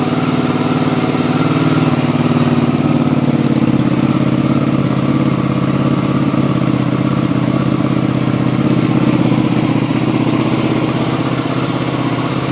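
Hyosung GT650R's V-twin idling steadily through its stock muffler cut down by almost 4 inches. It is louder than standard but not too loud.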